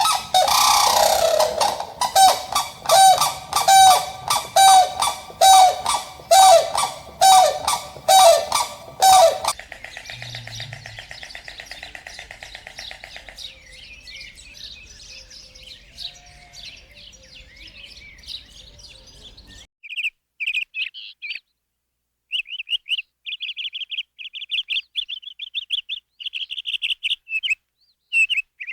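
Farm birds calling: first a run of loud honking calls repeated evenly, over a dozen of them, then after a quieter stretch, rapid high-pitched peeping.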